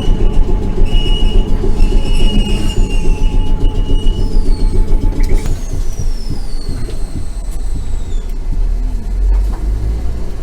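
Randen streetcar running on its rails, heard from inside the car: a steady low rumble of wheels and motors, with a high steady wheel squeal for the first four seconds or so. After that the squeal gives way to a few fainter falling squeals.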